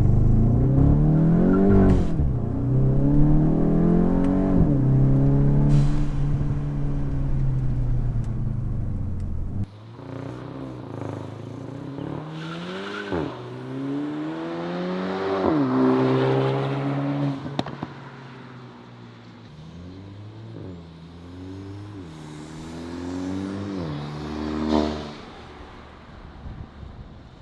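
Exhaust of a Mk8 Volkswagen GTI's turbocharged 2.0-litre four-cylinder with the rear muffler deleted, the engine revving up and down repeatedly. About ten seconds in the sound cuts to a quieter passage of short, sharp revs, the last climbing highest near the end before dropping off.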